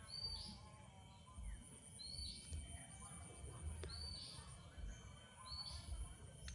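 A bird repeating the same short, high call four times, about every two seconds, over a faint steady high-pitched tone and a low rumble.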